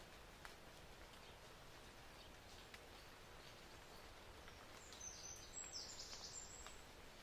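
Faint outdoor ambience: a low, even hiss with a few scattered soft ticks, and a brief high-pitched chirping sound about five seconds in.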